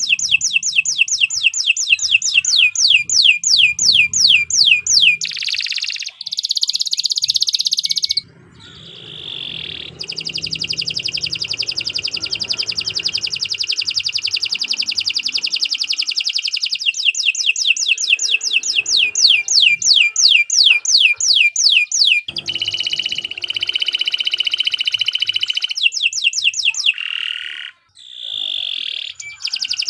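Domestic canary singing a long, unbroken song. It runs through phrases of fast downward-sweeping notes at about four a second, a very rapid rolling trill, and a few held notes, with a short pause near the end.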